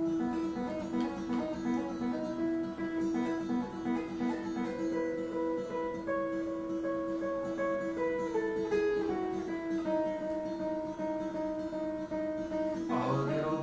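Instrumental break in a live song: acoustic guitar playing with long held notes and a slowly moving melody line, no singing.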